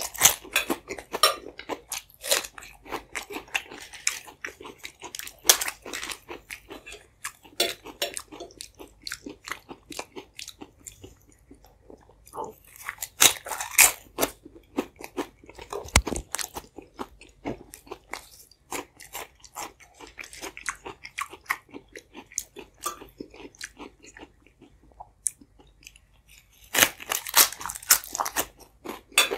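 Close-miked eating sounds from a person chewing a mouthful and sucking on gloved fingers: a steady run of wet chews, lip smacks and clicks. The louder sucking and smacking comes about halfway in and again near the end.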